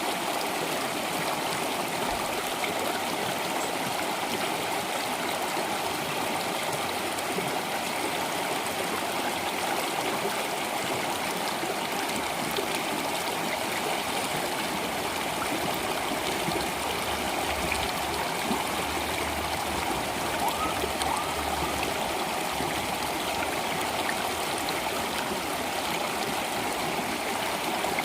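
Water flowing in a stream, steady and even.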